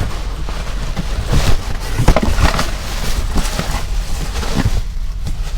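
Packaging being handled and opened by hand: irregular rustling and crinkling with small knocks and clicks, over a steady low hum.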